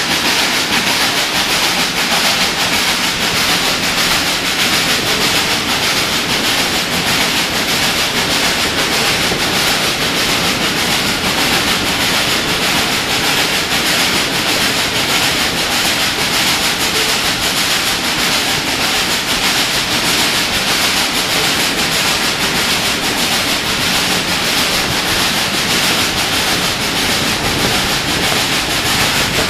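Steady, loud running noise of a passenger train behind a steam locomotive, heard from a coach's open vestibule: steel wheels on the rails and rushing air, with no let-up.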